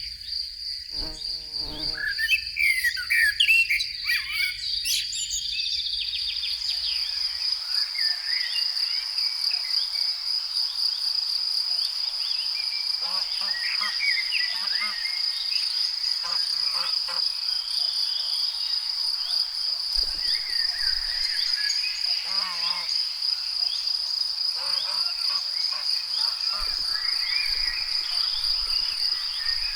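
Crickets chirping in a steady, high-pitched chorus. Birds call busily over it for the first few seconds, with scattered bird notes later on.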